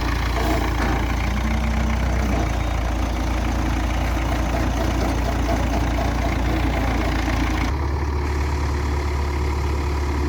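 A heavy diesel engine idling with a steady low drone. About three-quarters of the way through, the drone shifts abruptly to a different pitch and the hiss drops away.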